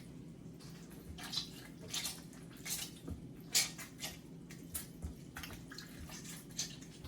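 Water splashing and dripping in irregular bursts as raw chicken pieces are washed by hand in water with vinegar and lemon, the loudest splash about three and a half seconds in, over a steady low hum.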